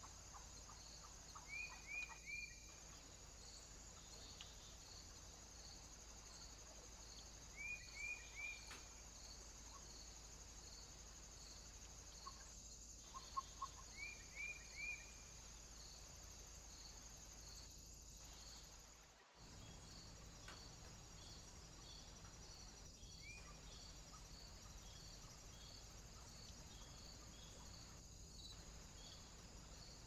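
Quiet woodland ambience: a few short, falling bird chirps in quick groups of three, over a steady, faint, regular insect pulsing like crickets. The background drops out briefly about two-thirds of the way through.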